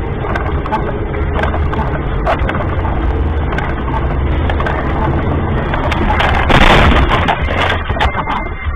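Dashcam recording of a car on the road: a steady low engine and road noise with scattered clicks and rattles, and a louder burst of noise about six and a half seconds in.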